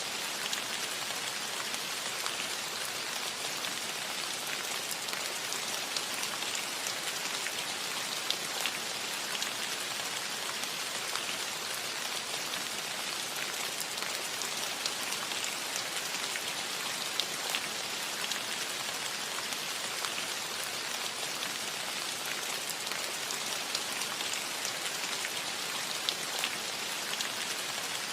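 Steady rain falling on a cottage roof: a dense, even hiss with scattered louder drop ticks.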